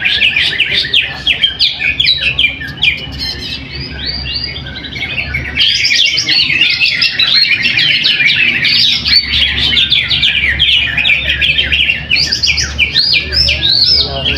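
Greater green leafbird (cucak hijau) singing: a fast, unbroken stream of chirps and sweeping whistled notes. The song eases off and softens about three seconds in, then comes back at full strength about two seconds later.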